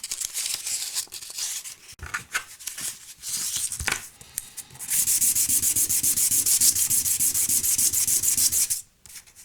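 Hand sanding with 1000-grit sandpaper, rubbing back and forth over a part. The strokes are uneven at first, then settle about halfway in into a fast, steady back-and-forth rhythm that stops shortly before the end.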